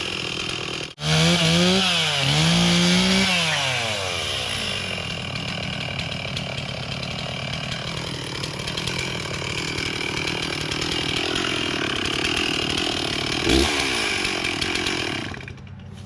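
Stihl chainsaw revving up and down several times, then running steadily at a lower pitch as it works through a cut for about ten seconds. There is a brief rev near the end before the engine drops off.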